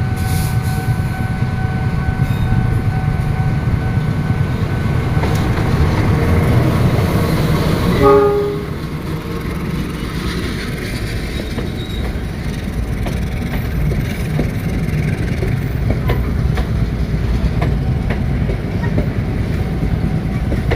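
Train running through a railway station with a steady low rumble, a steady whine over the first five seconds or so, and a short horn blast about eight seconds in.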